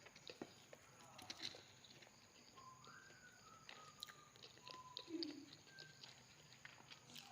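Near silence with faint eating sounds: scattered small clicks of chewing and utensils, and a few brief faint high tones.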